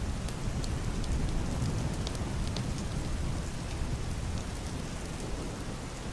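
Heavy rain on a wooden roof and glass window, a steady wash with scattered sharp drop ticks, over a low, muffled rumble of distant thunder.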